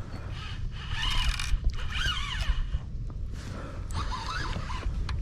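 Fishing reel running as a hooked fish is fought, with line going out against the drag or being reeled in. The reel sounds in three bursts of about a second each, its pitch sliding up and down with the line speed.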